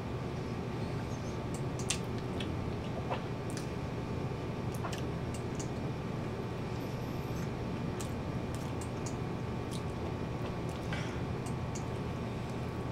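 A person chewing pizza close to the microphone: scattered short, wet mouth clicks and smacks over a steady background hum and hiss.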